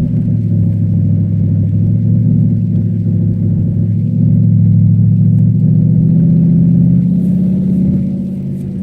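Cadillac STS-V's supercharged V8 running under load, a steady low drone that gets louder about four seconds in and eases off near the end.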